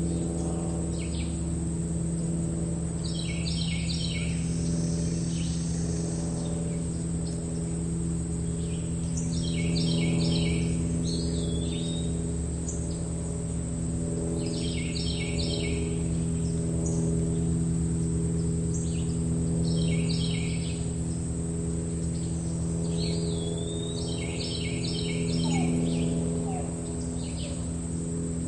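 Meadow ambience: a songbird sings short phrases of rapid repeated notes every few seconds over the steady high chirring of crickets in the grass. A steady low hum runs beneath.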